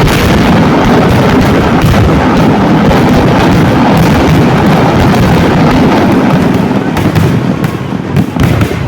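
A loud fireworks display (vedikkettu): a dense, continuous barrage of bangs and crackles that thins to more separate bangs about seven seconds in.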